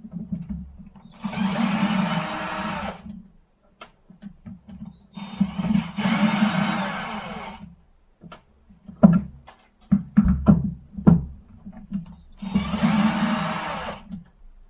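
Milwaukee C12 ID-22C cordless impact wrench, whose motor is damaged, run three times in bursts of about two seconds each, with a few clicks and knocks between the second and third runs.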